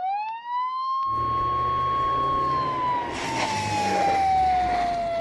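A siren winds up to a steady wail, holds, then slowly slides down in pitch. A rushing background noise comes in behind it about a second in and grows louder about three seconds in.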